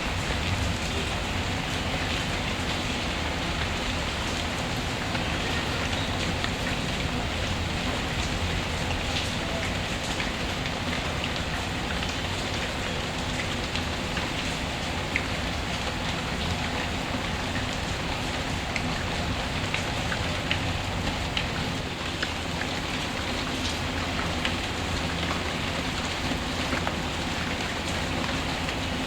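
Steady rain mixed with a crackling fireplace, with scattered faint pops and clicks over an even rushing hiss.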